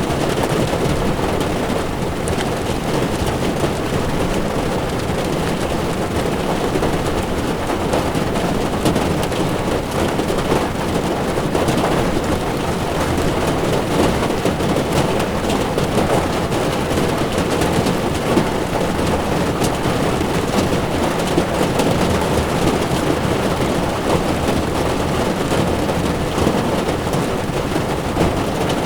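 Heavy rain falling on a car's windshield and body, together with tyres on wet road, heard from inside the moving car: a steady dense wash with many small drop hits.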